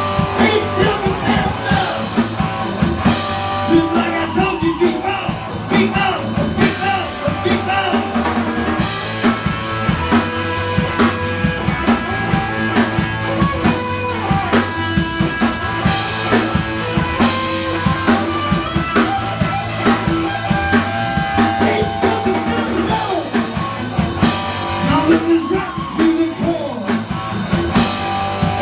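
A live rock band playing, with electric guitar over a drum kit.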